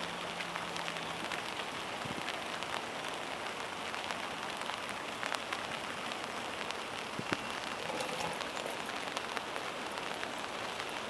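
Steady rain falling on the boat and its bimini top: an even hiss of rain with scattered drop ticks, a few of them louder.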